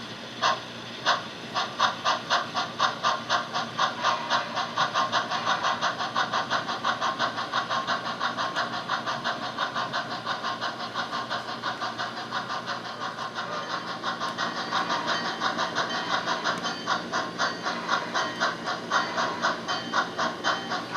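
HO scale model steam locomotive's sound-decoder exhaust chuffing as it pulls away: the chuffs quicken over the first few seconds from under two a second to a fast, steady beat of about four a second.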